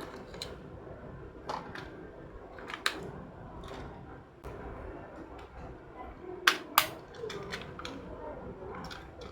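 A few scattered sharp clicks and taps of small hard objects, the two loudest close together past the middle, over a low steady background hum.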